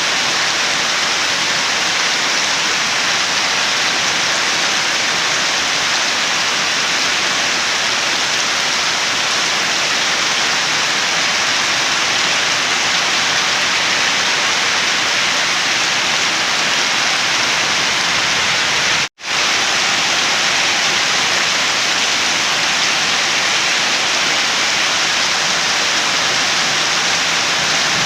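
Steady, heavy rain hissing without a break, with no drops or thunder standing out. About two-thirds of the way through it cuts out completely for a split second and comes straight back, like an edit or loop point.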